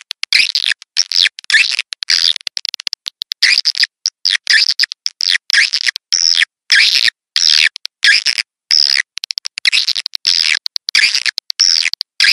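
Swiftlets twittering: rapid bursts of high chirps, a few a second, with brief silent gaps between them. This is the call-in sound played to lure swiftlets into a nesting house.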